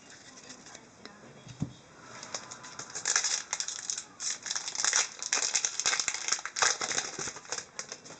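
Trading cards and their wrapping being handled: a dense run of rustling and crackling starting about two seconds in and dying away near the end.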